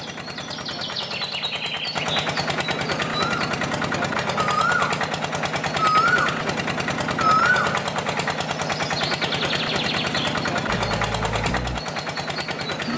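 Small engine running steadily with a rapid, even knocking pulse. High chirps rise and fall four times over it.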